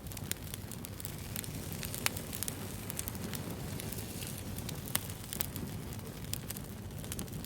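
Wood fire crackling: irregular sharp snaps and pops over a steady low rumble, with louder pops about two and five seconds in.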